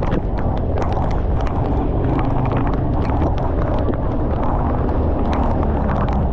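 Motorcycle riding through heavy rain: a steady rumble of engine and wind noise, broken by many irregular sharp taps of raindrops.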